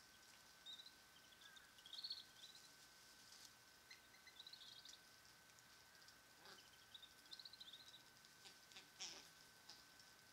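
Faint high-pitched bird chirps in short trilled clusters every second or two, over a thin steady whine.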